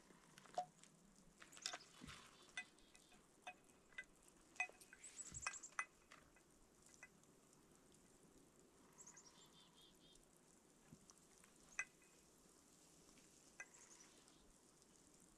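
Scattered light clicks, knocks and small ringing clinks of objects being handled, bunched in the first six seconds with a few more later, over near silence.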